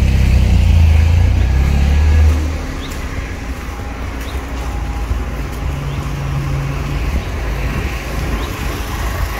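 Car engine running at low revs, a loud, steady low hum that falls away about two seconds in. After that, a quieter steady rumble remains.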